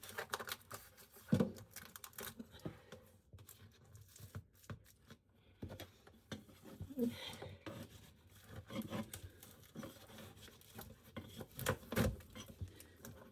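Old camper flooring being pried and torn up by hand with a scraper: irregular scrapes, taps and tearing, fairly faint.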